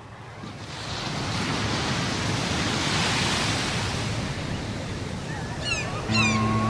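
Ocean surf: a steady wash of breaking waves. Music comes in near the end.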